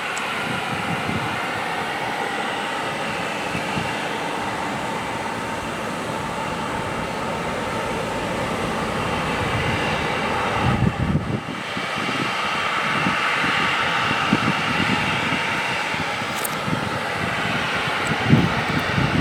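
Jet aircraft turbofan engines running steadily: a continuous roar with a faint whine over it. There is a brief buffet of low thumps on the microphone about eleven seconds in.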